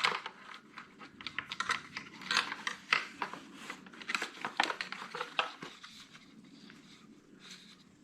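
A quick run of small clicks and light plastic rattles from hands handling a tractor tail light bulb and its housing, thinning out after about six seconds.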